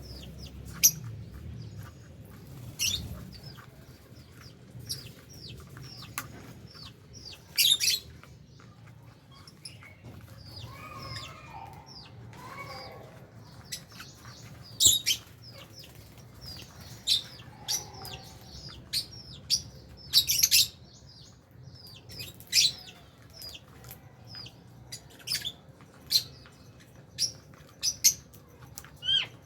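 Lovebirds in an aviary chirping: short, sharp, shrill calls at irregular intervals, some loud ones coming in quick pairs, with softer chatter in between.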